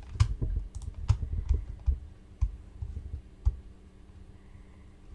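A string of irregular sharp clicks and low knocks, like handling or setting-up noise, that stops about three and a half seconds in, leaving a faint low hum.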